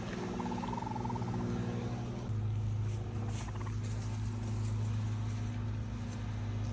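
A motor vehicle's engine running steadily with a low hum whose note shifts about two seconds in. A faint, brief warbling chirp sounds near the start.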